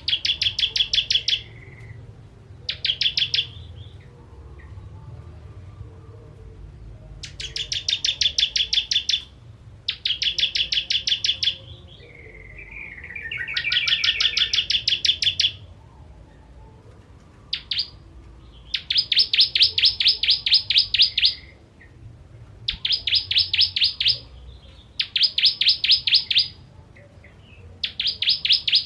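Ciblek kristal (bar-winged prinia) singing in bursts of sharp, fast-repeated high notes, each burst one to three seconds long with short pauses between, and a brief twittering phrase about halfway through.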